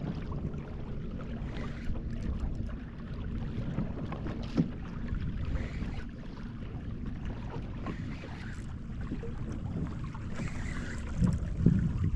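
Wind buffeting the microphone over water moving around a fishing kayak, with a few small knocks against the hull or gear, one about four and a half seconds in and a couple near the end.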